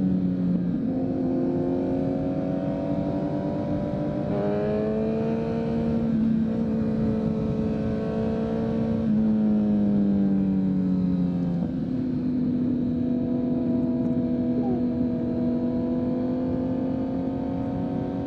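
Kawasaki Z900's inline-four running through a full Leo Vince exhaust, cruising at steady revs. The engine note steps abruptly in pitch about four times: down near the start, up about four seconds in, down again around nine seconds, and up near twelve seconds.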